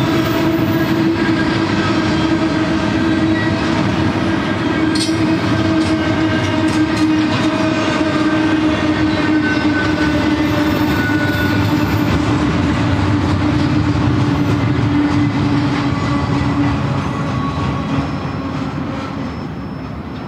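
Loaded double-stack container cars of a freight train rolling past: a steady rumble of wheels on rail with a steady pitched tone running through it. The sound fades over the last few seconds as the end of the train approaches.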